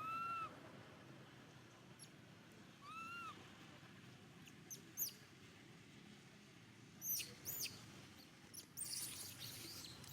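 A baby monkey crying with two short arched whistling calls, one at the start and one about three seconds in, followed by several brief, very high chirps and a burst of high noise near the end.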